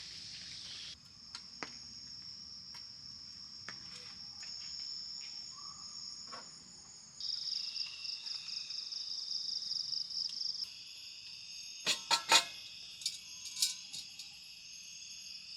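Steady high-pitched insect chorus of crickets trilling, its pitch and mix shifting abruptly a few times. A handful of sharp clicks and knocks come near the end.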